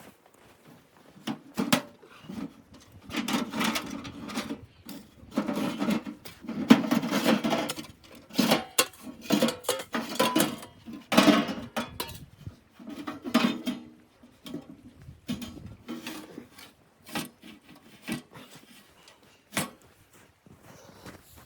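Objects being handled: irregular clattering, knocks and scrapes that come in busy spells with short pauses and thin out to scattered clicks in the second half.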